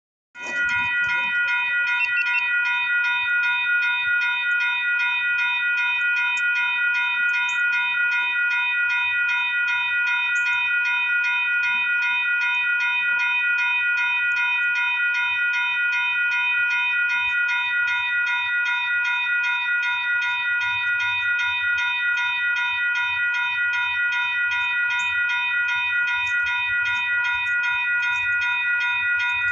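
Railroad crossing bell ringing continuously with fast, even strikes, about two to three a second. It starts suddenly just after the beginning and keeps a steady ringing tone.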